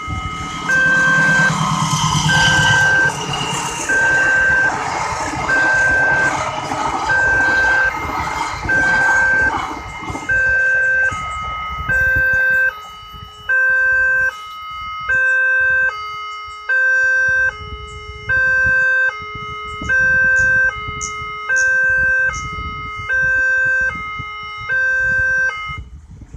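Railway level-crossing warning siren from a horn loudspeaker on a Multec crossing gate, beeping about once a second. The beeps are a single steady tone at first, then alternate between a high and a low tone from about halfway. For roughly the first ten seconds a loud rumble, likely a passing train, runs under the beeps.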